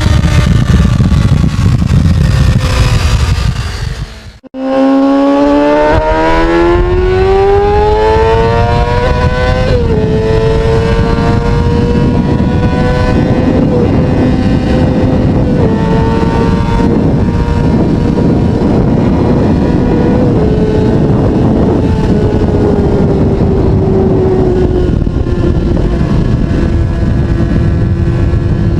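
Kawasaki Ninja sportbike engine running hard. After a short break about four seconds in, it accelerates with a steadily rising pitch, then settles into a fairly even cruise with small pitch steps at the shifts.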